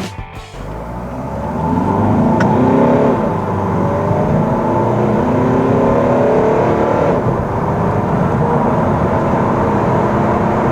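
DS 5's 2.0 BlueHDi 180 hp four-cylinder turbodiesel accelerating hard from a standstill, its note climbing through the revs and dropping back at each upshift of the automatic gearbox.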